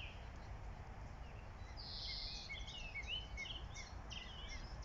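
Small songbirds chirping and twittering in many short whistles, busiest from about two seconds in, over a low steady rumble.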